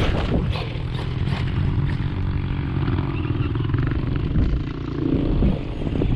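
Traxxas Sledge electric RC monster truck being driven, its brushless motor running under throttle, with several knocks in the first second and a half.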